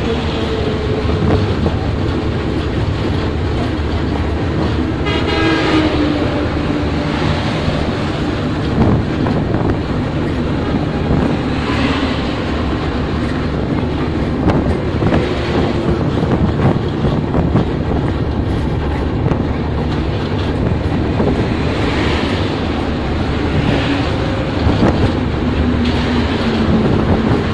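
Steady running noise of an intercity passenger train at speed, heard at the carriage window. Trucks and buses pass on the roadway alongside, their sounds dropping in pitch as they go by. One sounds its horn about five seconds in, the horn's pitch falling as it passes.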